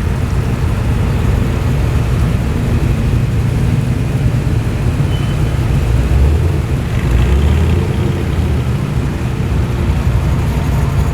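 Muscle car engines running at low speed as cars roll past, a steady deep exhaust note that swells a little about two-thirds of the way through.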